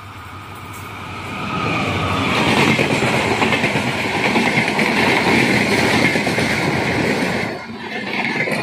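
A passenger train of LHB coaches passing close by at speed. The rumble and rattling clatter of its wheels on the rails swells over the first two seconds as the locomotive arrives, then holds loud and steady as the coaches run past, easing briefly near the end.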